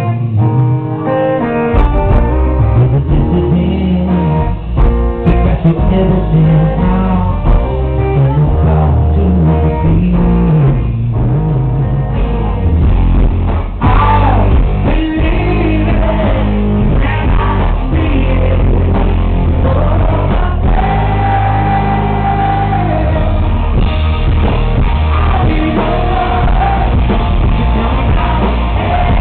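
Live rock band playing a song: guitar, with bass and drums coming in about a second in, and a male lead vocal singing over it.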